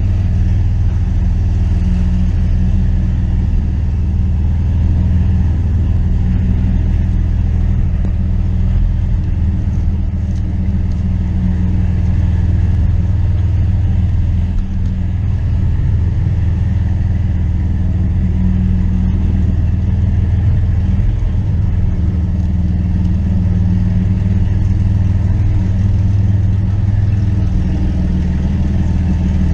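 1992 Dodge Dakota's 3.9-litre V6 Magnum engine running steadily, with a loud, even low rumble and no revving.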